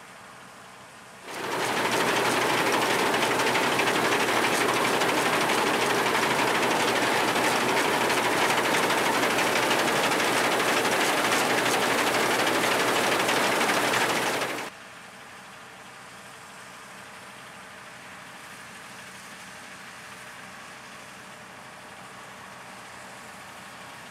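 Farm harvest machinery running close by: a loud, dense mechanical clatter that starts suddenly about a second in and cuts off suddenly about fourteen seconds in, with a quieter engine running before and after it.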